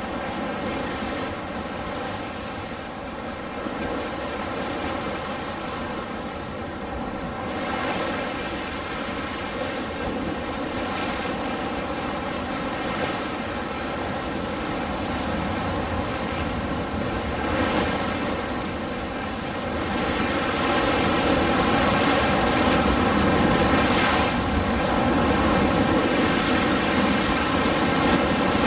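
Ocean waves: a steady wash of surf that swells louder about two-thirds of the way through.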